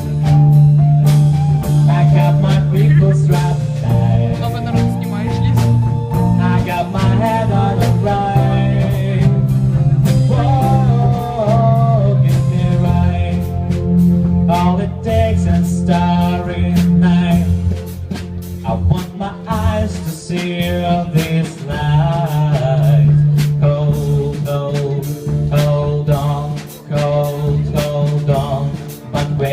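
A song sung in English over a rock accompaniment of guitar, bass and drums, with the voice carrying a gliding melody over a steady bass line.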